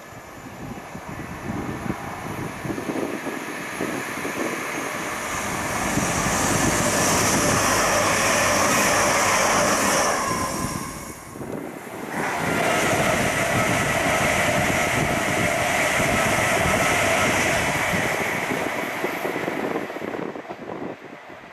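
Passenger train passing at speed on the East Coast Main Line: the rail noise builds up, drops briefly about halfway through, comes back with a steady whine, then fades away near the end.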